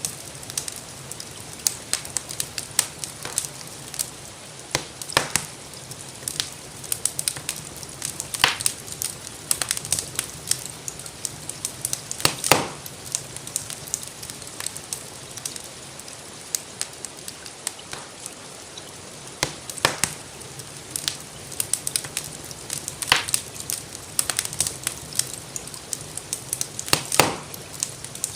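Wood fire crackling with many small clicks and a few louder pops, over a steady hiss of rain.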